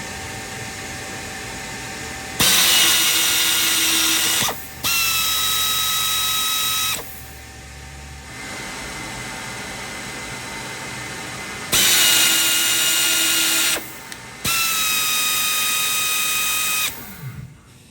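Flexarm tapping arm driving an 8-32 spiral point tap, twice: each time the motor runs with a steady whine over a hiss for about two seconds, stops briefly, then runs again for about two seconds as the tap reverses out. That makes two holes tapped.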